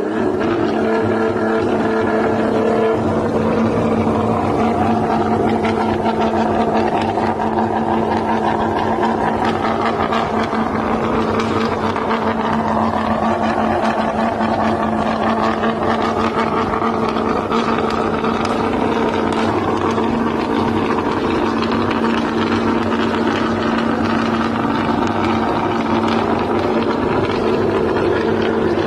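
Car engine running at a steady speed: an even, constant hum with no pops or bangs.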